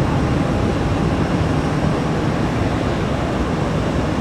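Jet airliner engines running as a steady, even rumble with no rise or fall.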